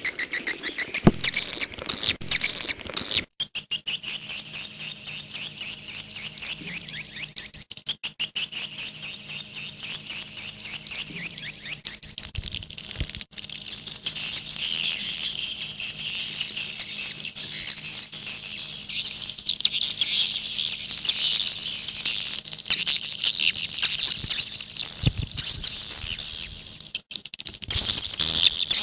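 Swiftlets (walet) twittering: a dense, continuous stream of rapid high chirps and clicks, broken off briefly a few times.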